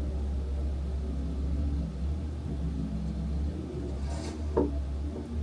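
Snow blower engine running steadily, with a brief hiss and a short squeak about four seconds in.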